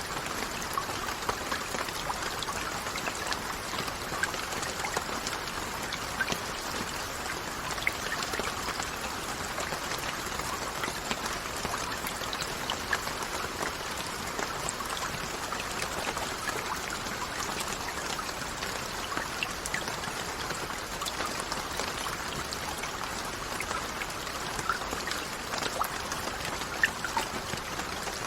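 Steady rainfall, with many separate drops ticking and pattering on a surface over a constant wash of rain noise.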